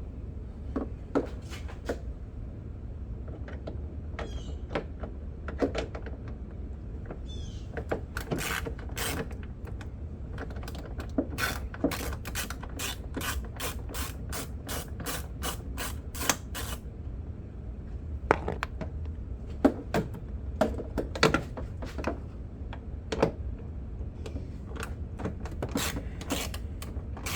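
Ratchet wrench clicking while backing out small 7/32 screws, with a run of evenly spaced clicks about two to three a second through the middle and scattered clicks of the tool and parts before and after. A steady low hum lies underneath.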